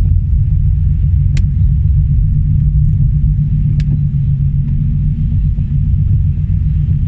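Car driving, heard as a steady low rumble of road and engine noise, with two sharp clicks about one and a half and four seconds in.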